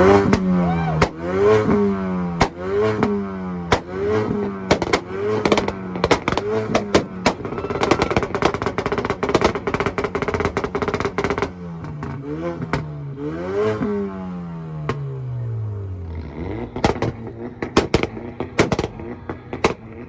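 A Volkswagen's engine revved in repeated quick blips, then held steady on the two-step rev limiter through the middle with rapid exhaust pops and cracks. Near the end the revs fall away and scattered exhaust pops follow.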